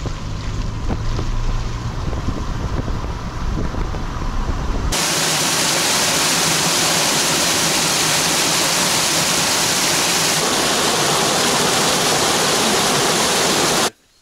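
Loud, steady rushing noise like rain or running water, with scattered ticks over a low rumble. About five seconds in it switches abruptly to an even hiss, which cuts off suddenly near the end.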